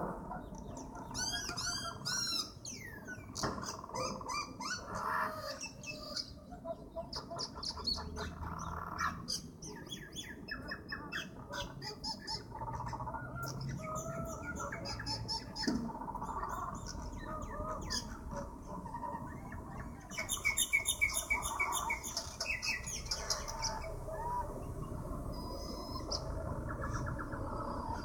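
Several birds squawking and chirping in quick, repeated calls as they fight, with a burst of rapid calls about twenty seconds in, over a steady low background rumble.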